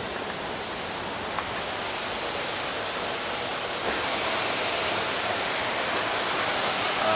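Waterfall's falling water: a steady rushing hiss of water that gets a little louder about four seconds in.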